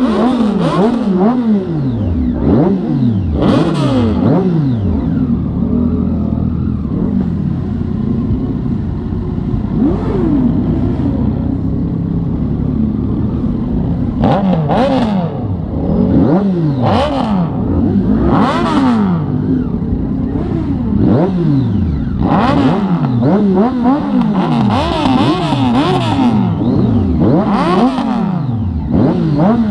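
Triumph Street Triple's three-cylinder engine revved in repeated throttle blips, the pitch climbing and falling back many times.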